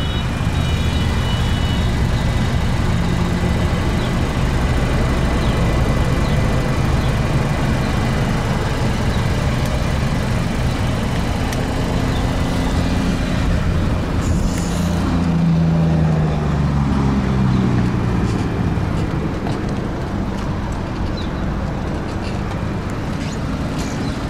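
Steady low rumble of motor-vehicle engines, with one engine's pitch rising and then falling a little past the middle.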